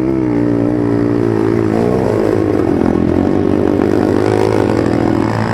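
Dirt bike engine running under load, its pitch rising and falling as the throttle is opened and closed.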